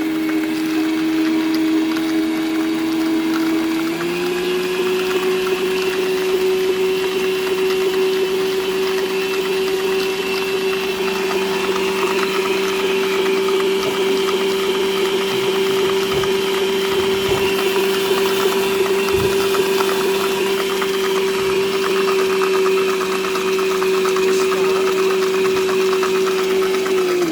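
Planetary stand mixer motor running steadily as it beats butter and sugar, with a steady hum that steps up to a higher speed about four seconds in and cuts off right at the end.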